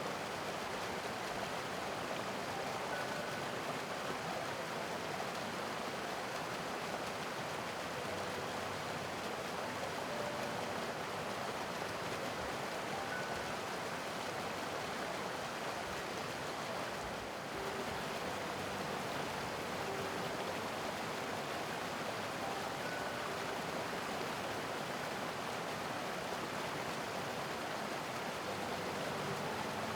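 Mountain creek rushing steadily over rocks, a dense, even water noise that does not let up.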